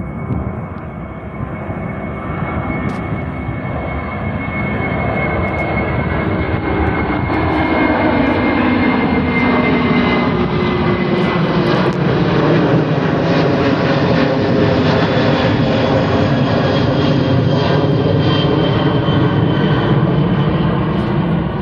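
Airbus A330-303's twin GE CF6-80E1 turbofans at takeoff thrust, a jet roar that builds over the first several seconds and then holds steady and loud, with a high whine slowly falling in pitch as the airliner goes past.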